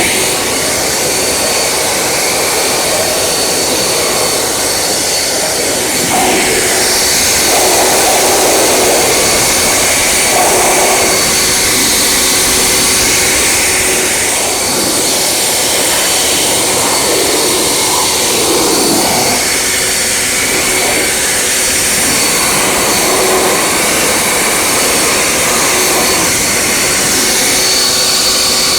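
Loud, steady rushing noise of car-wash equipment at work, with a faint steady motor whine underneath and swells that come and go.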